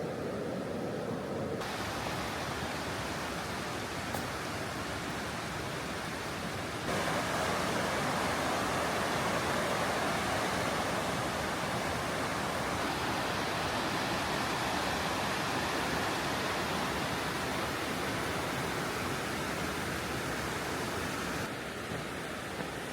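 Steady rushing water noise of rain and a river flowing. It changes abruptly about two seconds in, grows louder and fuller about seven seconds in, and drops a little near the end.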